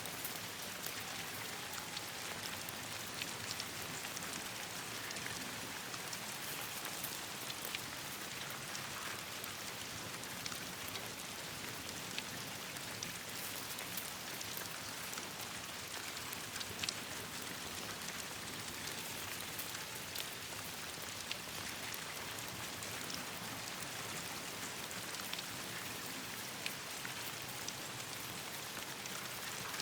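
Steady rain falling on leaves and surfaces, a continuous hiss with many scattered sharp ticks of individual drops.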